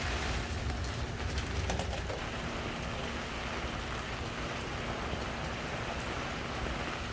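Heavy monsoon rain pouring steadily, with sharp drop ticks in the first couple of seconds.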